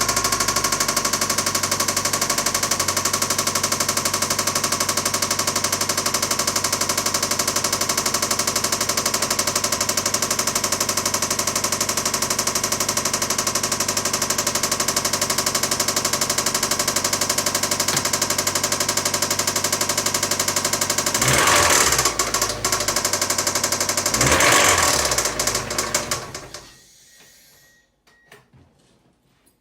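Engine running with a fast, steady knock, which the owner takes for rod knock. It surges louder twice, about two-thirds of the way through, then shuts off and goes quiet near the end.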